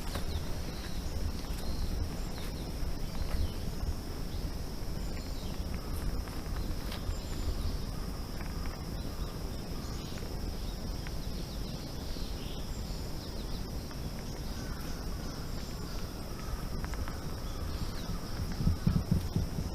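Insects trilling steadily at one high pitch, with a few short bird chirps, over the low scuffing of footsteps on a forest trail that grow louder near the end.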